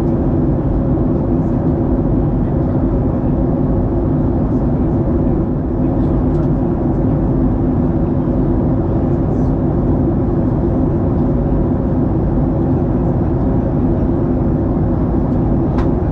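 Steady cabin noise of a jet airliner in flight, heard from inside the passenger cabin: a constant engine drone and rushing air with a low, steady hum.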